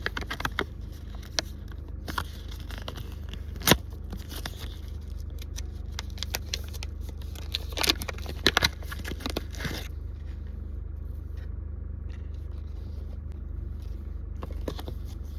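Footsteps on a forest trail: irregular scrapes and clicks with a few sharp snaps around four and eight seconds in, thinning out after about ten seconds, over a steady low rumble.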